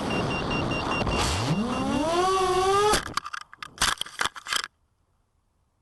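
FPV racing quadcopter's brushless motors and tri-blade props whirring in rushing air, their pitch rising steeply about a second in. About three seconds in the sound breaks off into a quick scatter of cracks and thuds as the out-of-control quad crashes, breaking props, and the recording then goes dead.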